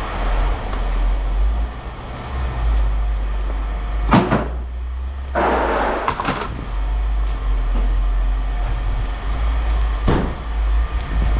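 Metal parts knocking together three times, with a short scraping rush between the first two knocks, over a steady low rumble.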